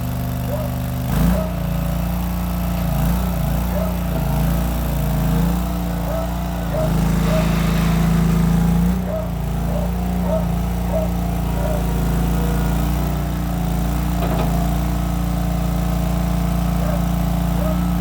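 Engine of a Case 1816 skid steer running, with its exhaust through small round mufflers. The engine speeds up about a second in, works harder and louder between about seven and nine seconds, then settles back, as the machine moves dirt.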